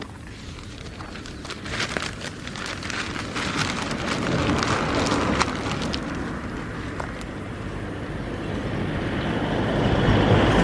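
Bonfire of dry grass burning: many sharp crackles and pops, with a rushing noise that swells and grows louder toward the end as the flames flare up.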